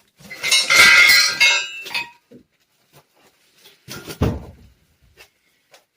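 Steel engine-stand parts clanking and rattling against each other as they are handled in the shipping box, a loud metallic clatter over the first two seconds. A duller knock follows about four seconds in, with a few small clicks.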